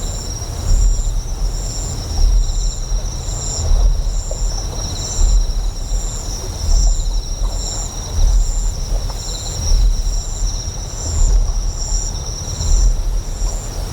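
Sound-designed ambience of a deep generator hum that swells about every one and a half seconds, under steady high insect chirping, one strand of it pulsing about once a second. A faint rush of flowing water fills the middle.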